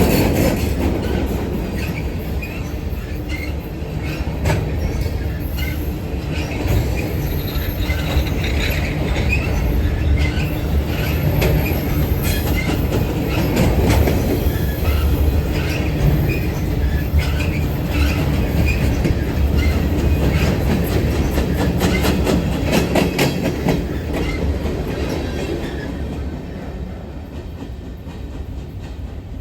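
Train cars rolling past, a steady heavy rumble with wheels clacking over the rail joints and occasional wheel squeal; it grows quieter over the last few seconds as the train moves off.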